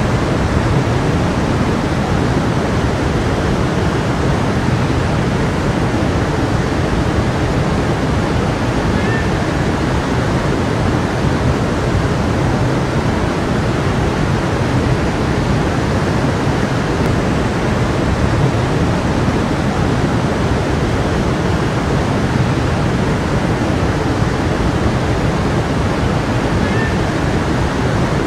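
A stream of water rushing steadily over rocks, a constant even wash of sound with no changes.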